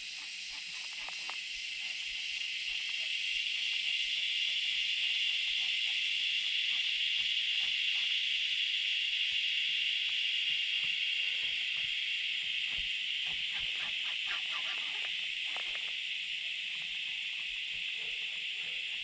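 Insects droning in the riverside trees: a steady high-pitched buzz that swells over the first few seconds and eases a little near the end.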